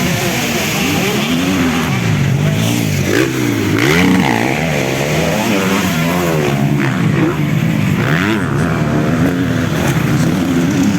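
Motocross bikes racing round a dirt circuit, their engines revving hard with the pitch rising and falling over and over as the riders open and close the throttle.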